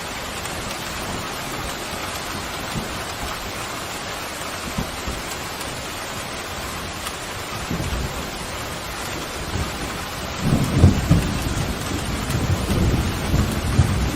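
Steady heavy rain, with a low rumble of thunder building about eight seconds in and growing loud from about ten and a half seconds on.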